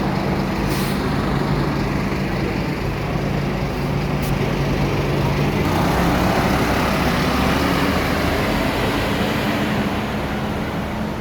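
Scania K230UB bus's five-cylinder diesel engine running steadily, with a short hiss about a second in; about halfway through the engine note changes and grows louder, then eases off near the end.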